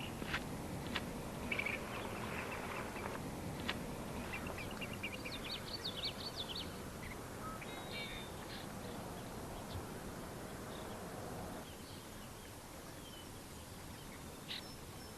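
Small birds chirping, with a quick run of repeated trilled notes about five seconds in, over a steady outdoor background hiss that drops a little near the end.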